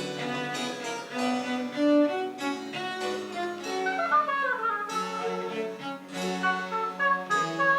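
Small Baroque ensemble of bowed strings with a low bass line playing a French Baroque piece in quick running notes, with a fast descending run about four seconds in.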